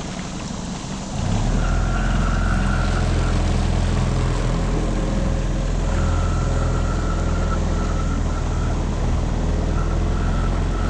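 Tohatsu 9.8 four-stroke outboard motor running slowly, then throttled up about a second in and running steadily under way.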